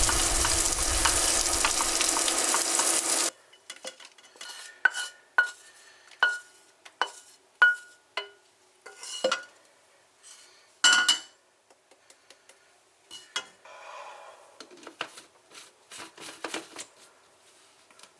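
A kitchen tap runs in a steady gush and is shut off abruptly about three seconds in. Then a spoon clinks repeatedly against a dish with a short ringing tone, about one or two clinks a second, as something is stirred, followed by a few soft handling sounds.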